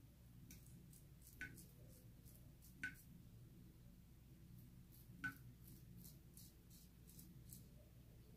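Faint, short scraping strokes of a kamisori-style shavette blade cutting a few days' stubble, with three brief light clicks.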